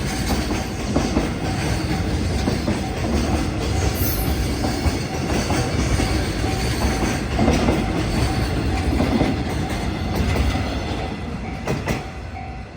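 Freight train wagons rolling past, a loud steady rumble with wheels clattering over the rail joints, easing off near the end.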